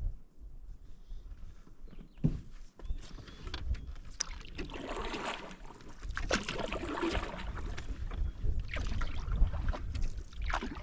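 Canoe paddle strokes pulling through lake water, a swishing stroke every second or two, over a low rumble. A sharp knock comes about two seconds in.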